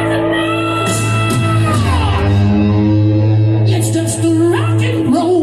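Rock music: the band holds long sustained chords while a singer holds and slides between long notes.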